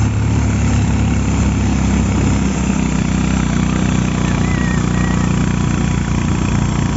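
An engine running steadily with a low hum, its pitch shifting slightly a couple of seconds in.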